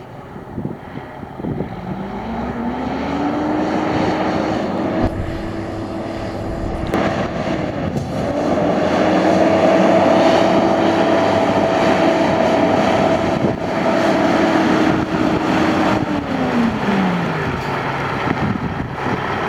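2001 International truck's engine revved up and held at raised speed, easing off briefly partway through, then dropping back to idle near the end.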